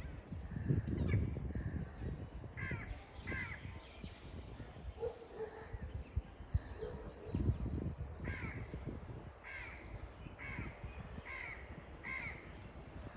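Crows cawing outdoors: a string of short calls in two bouts, the second bout a run of five caws near the end. Low rumbling noise swells about a second in and again past seven seconds.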